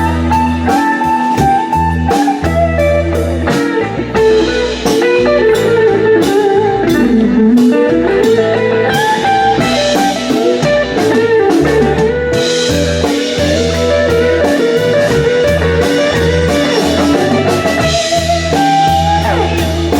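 Live blues band playing an instrumental break: a guitar lead with notes that glide up and down over bass and drums.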